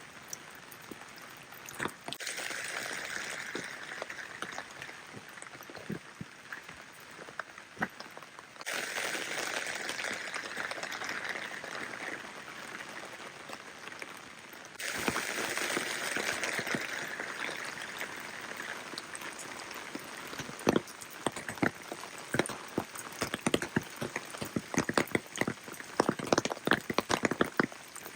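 Rain falling steadily as a hiss, with many sharp, close drop impacts. The level jumps up abruptly a few times, and the drops grow louder and thicker from about two-thirds of the way through.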